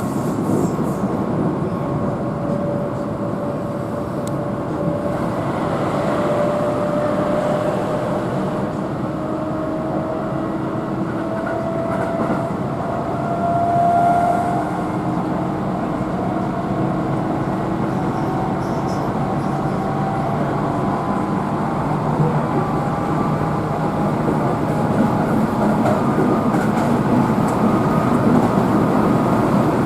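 Keihan electric train running, heard from on board: steady rolling and rail noise, with a motor whine that rises slowly in pitch over several seconds up to a peak about halfway through.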